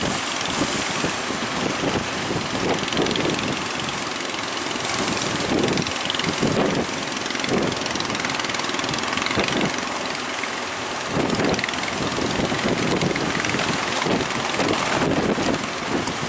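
Strong wind buffeting the microphone in irregular gusts, over a steady noise of big waves breaking.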